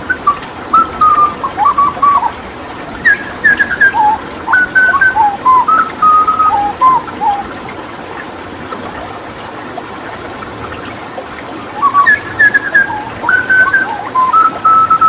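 Hooded butcherbird singing: runs of clear whistled notes, some sliding up or down, in two bouts with a pause of about five seconds between them. A steady hiss of running water lies underneath.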